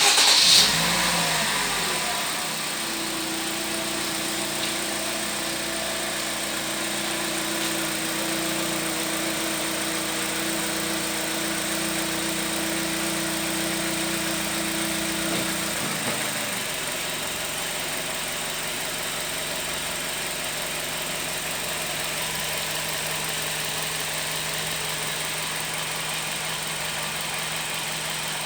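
Toyota Vitz engine idling steadily after a loud first second or two. About 16 seconds in, the engine note drops to a lower, steady idle as the car is put into Drive and the engine takes up the load.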